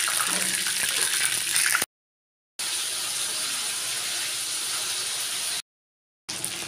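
Chicken pieces sizzling as they fry in hot mustard oil, a steady hiss. It cuts off to dead silence twice for about half a second.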